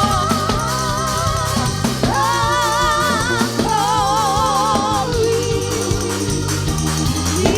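Gospel praise song: a singer holding long notes with vibrato over steady instrumental accompaniment.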